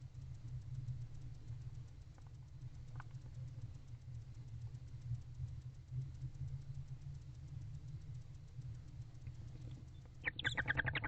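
Steady low hum, then about ten seconds in a loud burst of rapid chittering from a barn owl in the nest box.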